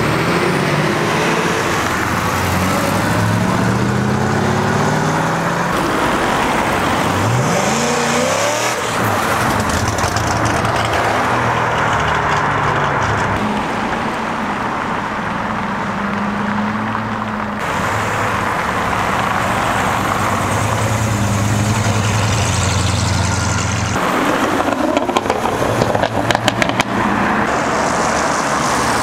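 Cars pulling away one after another, their engine and exhaust notes rising as they accelerate and rev, with abrupt changes from one car to the next. Near the end comes a quick run of sharp pops.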